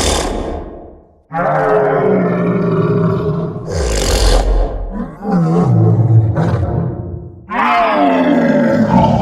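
Imagined cries of the squonk, a folkloric creature: several long animal-like calls, some sliding down in pitch, with short noisy bursts between them.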